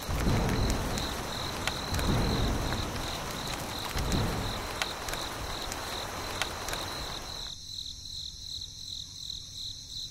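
Insects chirping in a steady high pulsing trill, over a noisy bed with a few soft low swells and clicks that cuts off abruptly about three-quarters of the way through.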